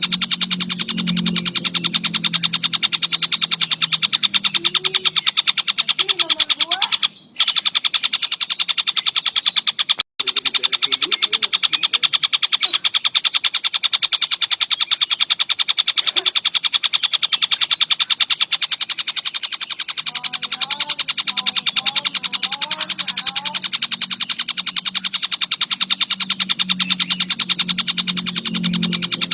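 A kingfisher (tengkek buto) calling non-stop in a dense, rapid chatter of sharp, high notes. The sound breaks off briefly twice, about 7 and 10 seconds in.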